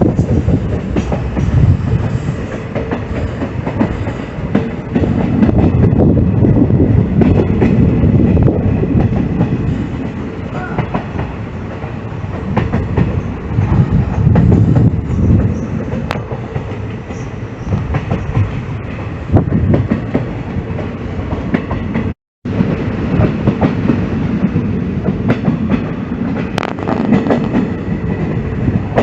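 Passenger train running along the track: a continuous rumble of wheels on rails with rapid clicking over the rail joints. The sound cuts out completely for a moment about 22 seconds in.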